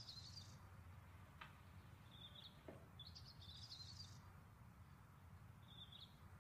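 Faint birdsong: short chirping phrases, one about every three seconds, over a low hum, with two faint ticks.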